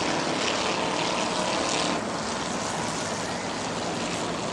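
Several car engines running together as the field races around the track, a steady blend of engine drone and noise.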